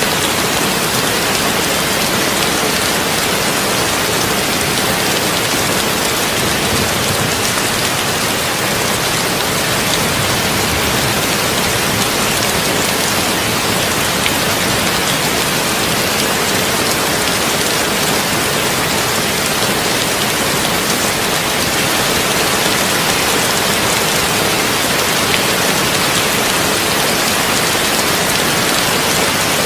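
Heavy rain falling steadily on a tin roof: an even, unbroken hiss of drops with no thunder.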